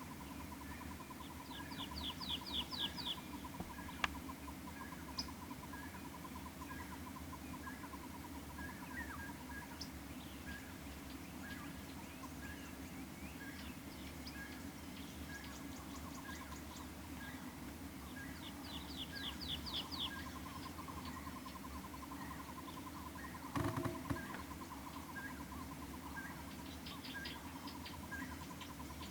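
Several wild birds calling together. One gives a long, rapid trill at a steady pitch that breaks off for several seconds and then resumes. Another repeats a short note at a steady pace, and three times a quick run of high notes sounds, with a single brief knock a little past the middle.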